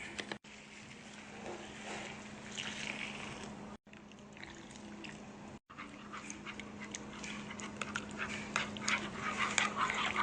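Faint dog sounds over a steady low hum, with many short clicks and knocks in the second half. The audio drops out briefly three times.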